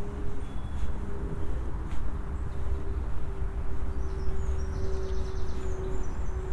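Steady low rumble of distant road traffic with an engine hum, and small birds chirping high from about four seconds in.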